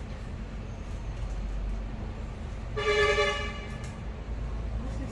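A vehicle horn toots once, for about a second, midway through, over a steady low rumble of traffic.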